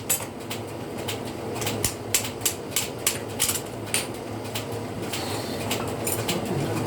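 An irregular run of sharp clicks and light knocks, a few a second, over a steady low hum.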